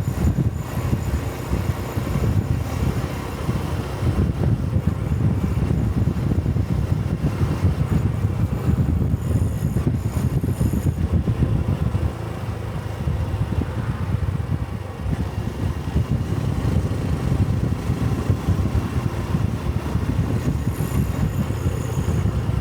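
Single-cylinder engine and exhaust of a Honda Cub-series 125 cc motorcycle running while riding, a steady low rumble that eases slightly about halfway through and then picks up again.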